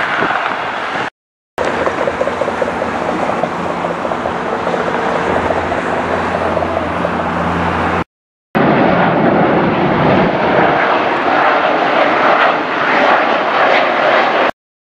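Jet airliner engines heard in separate clips. First comes a steady engine hum with several held tones. After a cut, a louder, even jet roar takes over.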